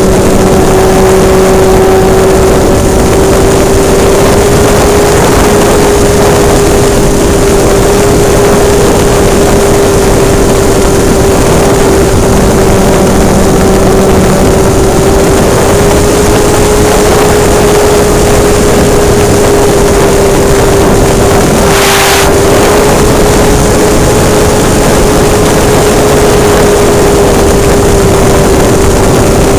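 Hobbistar 60 RC model airplane's engine and propeller running steadily at high throttle, very loud close to the microphone, with the pitch drifting slightly up and down. A brief rush of noise passes about 22 seconds in.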